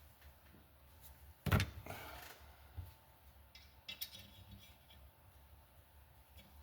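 Small metal tools and valve parts being handled: a loud clatter about 1.5 s in, another knock near 4 s, and light clicks between.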